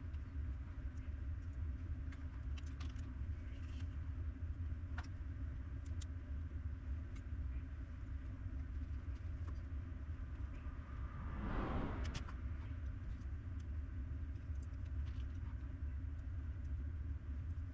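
A steady low mechanical hum with small light clicks scattered through it, and a brief louder rustling or scraping sound about twelve seconds in.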